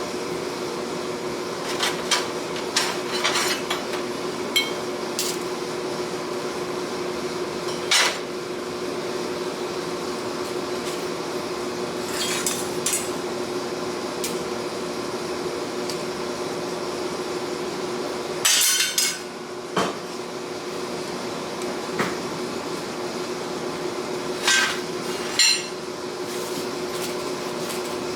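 Metal tools clanking and striking in a forging shop: about a dozen irregular, separate knocks, some ringing briefly, rather than a steady hammering rhythm. A steady hum runs underneath.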